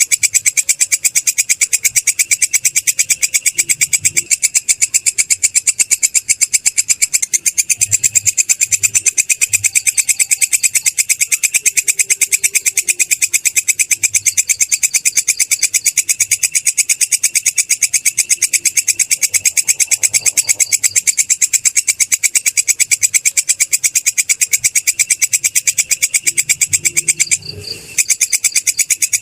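Belalang kecek insect calling, a loud, shrill trill of rapid, even pulses that breaks off briefly once near the end.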